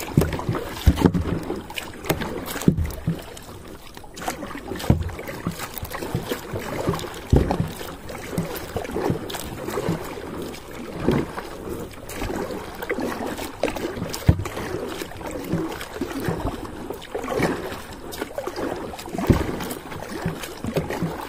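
Kayak paddling at sea: the paddle dipping and splashing in the water stroke after stroke, with irregular knocks and wind noise on the microphone.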